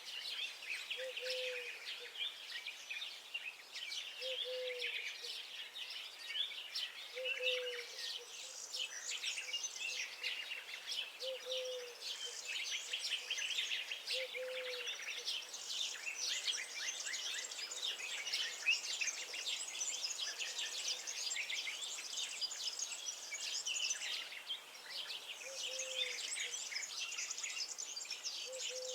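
Many songbirds singing and chirping at once in a dense, continuous chorus of quick high notes and trills. A short low call repeats about every three seconds, drops out for a stretch in the middle, and returns near the end.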